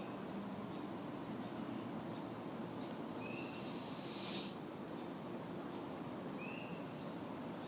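Barred owl giving one high, drawn-out screeching call, under two seconds long, that rises in pitch at the end and stops abruptly. Faint short chirps sound in the background.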